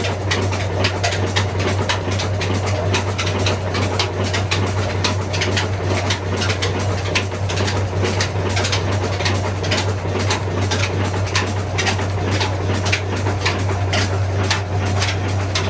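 Old Ruston stationary engine running steadily: a constant low hum with a regular beat of sharp knocks, about two a second.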